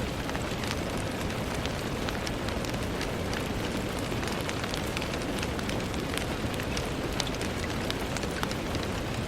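Steady rain falling on a window pane, a constant hiss with many separate drops ticking sharply against the glass.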